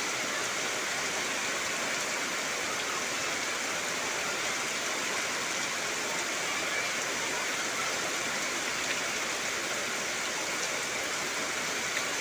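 Heavy rain falling steadily on trees, an even, unbroken hiss.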